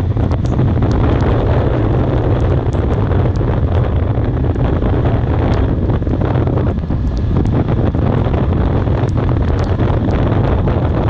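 Wind buffeting the microphone over a steady low rumble, with scattered faint ticks.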